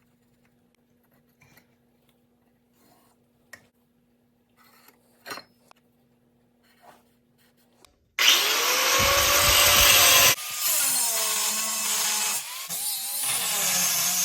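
A few faint handling clicks over a low steady hum. Then, about eight seconds in, a handheld power tool starts abruptly and runs loud, its pitch dipping and recovering as it bears on the work.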